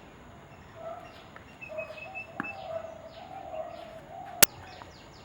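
Birds chirping in quick short calls over a faint background, with a single sharp click about four seconds in.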